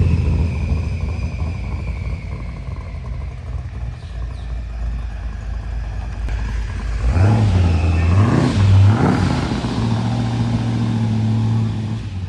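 Classic American car engine running with a low, steady note that fades early on. It is then revved two or three times about seven to nine seconds in and settles back to a steady low run.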